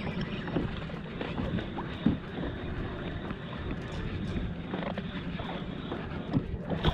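Steady wind and water noise around a fishing kayak, with a few faint knocks against the hull.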